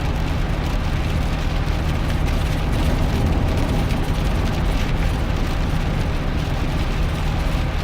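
Steady drone inside the cab of a 2001 GMC Sierra pickup driving in the rain: low engine and road hum under an even hiss of rain and wet tyres.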